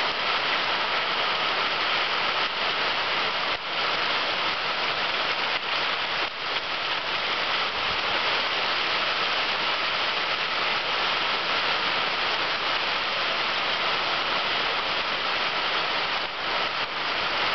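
Hail knocking on a roof in a dense, steady clatter of hailstones that does not let up.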